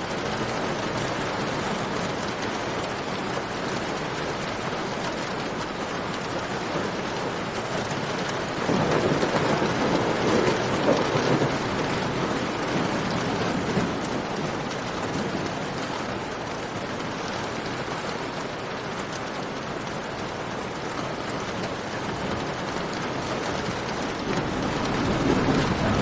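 Steady rain pouring down, a dense hiss of drops, with a campfire crackling beneath it. The rain swells louder and deeper about nine seconds in and again near the end.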